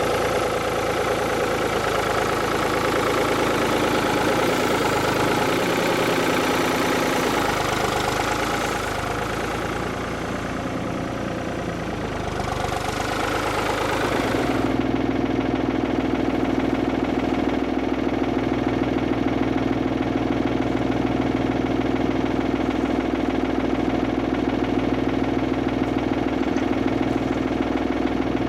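Tractor engine running steadily. Over the first half there is an added broad hiss, which cuts off abruptly about halfway through, leaving the steady engine hum alone.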